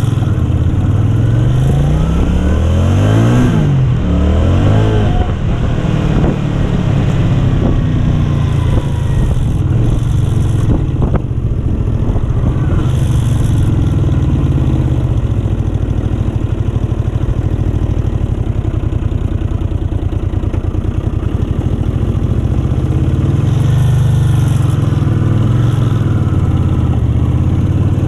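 1970s Honda 350 motorcycle engine running, revved up and down several times a couple of seconds in, then running steadily.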